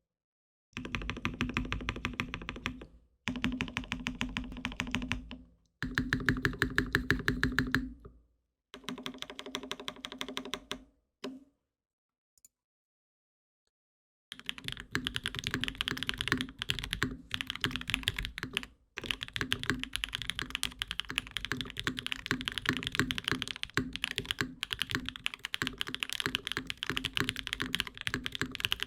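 Typing on a Mode Sonnet mechanical keyboard with lubed Durock POM switches, a carbon fiber plate and GMK keycaps. There are four runs of fast, evenly repeated keystrokes of about two seconds each, a pause of a few seconds about halfway, and then steady continuous typing.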